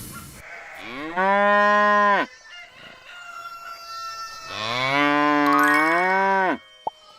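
Cow mooing twice: two long moos, the second longer than the first.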